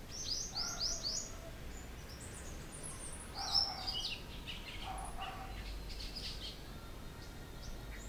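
Small birds calling: a quick run of about five short, falling chirps right after the start, then more chirps in clusters around the middle.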